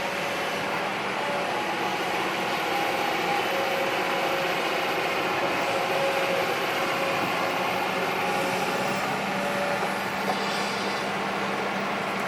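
Diesel engine of heavy earthmoving machinery running steadily, a constant drone with a steady low hum.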